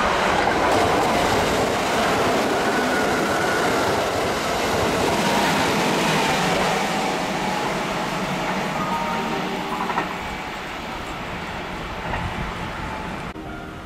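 Kintetsu red-and-cream electric train running through a station at speed without stopping. It is loud as it passes close, then drops away quickly about ten seconds in and fades.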